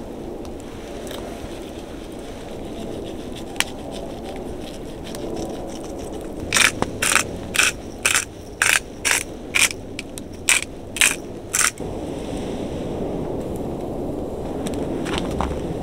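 About a dozen crunching footsteps in snow, about two a second, from about six to twelve seconds in, over a steady low rushing background.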